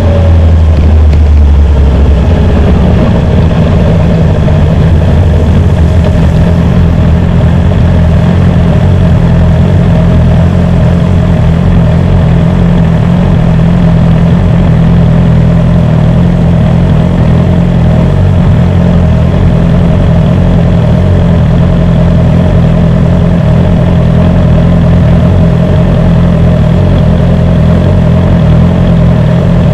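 BMW S1000R motorcycle's inline-four engine running steadily at low revs. A deep low rumble drops away about two seconds in.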